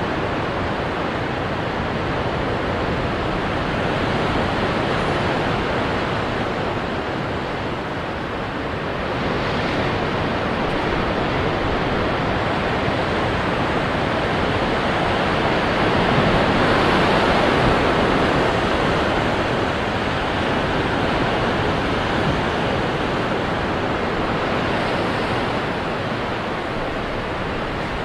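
Ocean surf breaking on rocks: a continuous rushing wash that swells and eases, loudest about two thirds of the way through.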